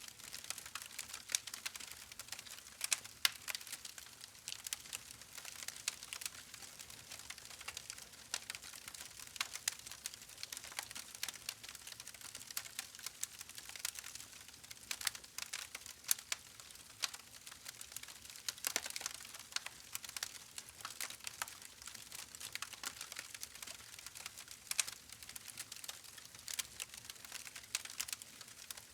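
Campfire burning: many small, irregular sharp crackles over a faint steady hiss, with a somewhat louder crackle about two-thirds of the way in.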